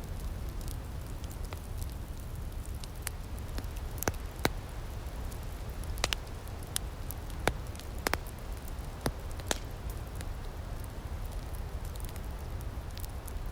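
Outdoor wood fire crackling: irregular sharp pops and snaps over a steady low rumble of burning.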